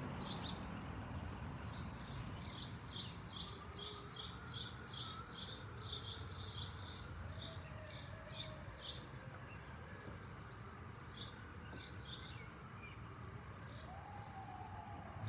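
A small bird chirping: a fast run of short, high chirps, about two or three a second, that thins out to a few scattered chirps partway through.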